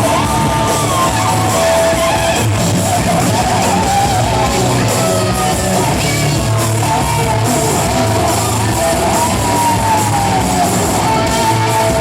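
Live rock band playing loudly, with electric guitar.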